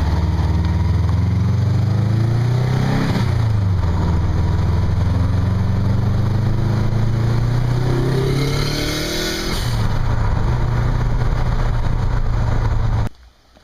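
Motor vehicle engine running at a steady pace under a wash of wind noise, its pitch shifting about three seconds in and again near the end. The sound cuts off suddenly just before the end.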